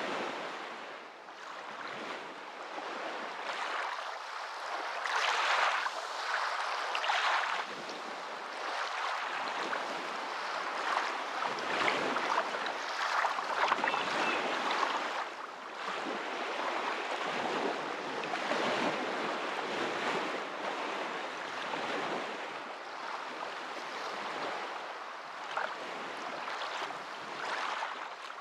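Moving water rushing steadily, swelling louder and easing off every few seconds.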